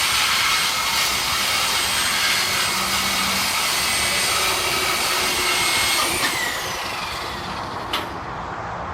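A high-speed cut-off tool cutting exhaust pipe to remove a muffler, running with a steady high whine over a rushing noise. About six seconds in it is released and winds down in falling pitch, and a sharp click follows near the end.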